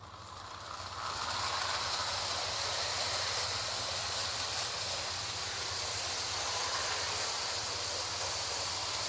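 Lionel O-gauge Hudson model steam locomotive running round the track pulling a train of freight cars: a steady rolling, whirring noise of motor and wheels on the rails. It builds up over the first second as the train gets under way, then runs evenly.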